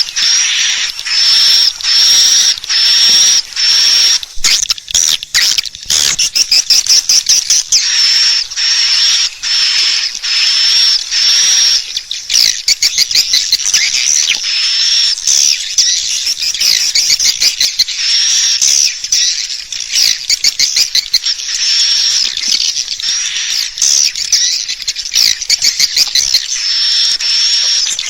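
Swiftlet call recording used as a lure to draw swiftlets into a nest house. It is a run of high chirps, about two a second, broken by stretches of fast, clicking twitters.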